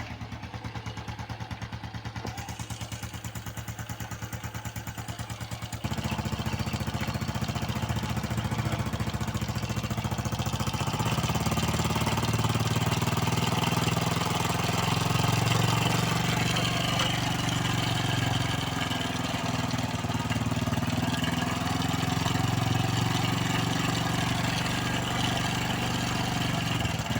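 Honda Biz 110's single-cylinder four-stroke engine running with a fast, even ticking noise, turning faster about six seconds in and again around eleven seconds. The mechanic suspects the noise comes from a slack cam chain.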